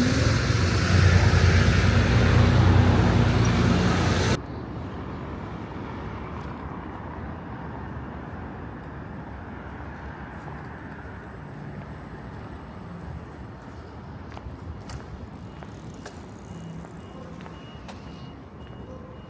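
Road traffic with a motor vehicle running close by, loud and low for about the first four seconds, then an abrupt cut to much quieter outdoor city ambience with occasional faint clicks.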